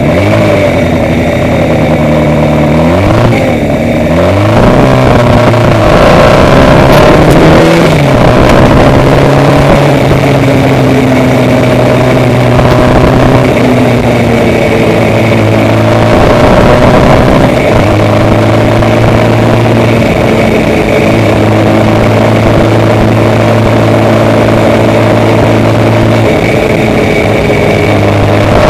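A road vehicle's engine running under way. Its pitch climbs and drops back several times in the first eight seconds, as with acceleration and gear changes, then holds fairly steady at cruising speed.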